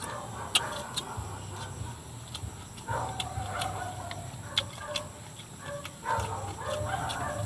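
Close mouth sounds of someone eating fried fish and rice by hand: chewing with sharp lip smacks, several of them. A farm animal calls in the background twice, about three seconds in and again near the end.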